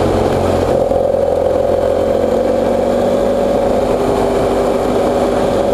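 BMW F800GS parallel-twin motorcycle engine running at a steady, unchanging pitch.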